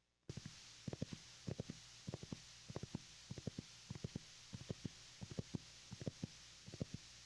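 Soft, dull taps and knocks of hands handling a MIDI keyboard controller and its packaging, about three or four a second at uneven spacing, over a faint steady hiss.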